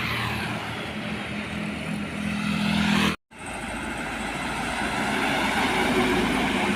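Heavy diesel trucks passing on a road: a steady engine drone with tyre and road noise. The sound cuts out abruptly about three seconds in, then builds again as another vehicle approaches.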